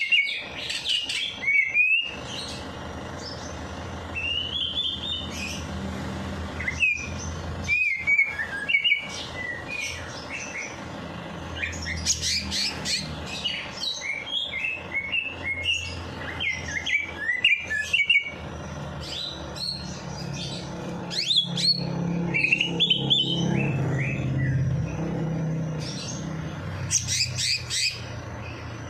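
Songbird singing in quick runs of short chirping notes, with brief pauses between runs. A low steady hum runs underneath.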